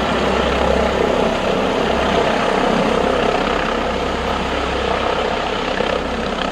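A vehicle engine running steadily, a constant low hum under a broad even rumble.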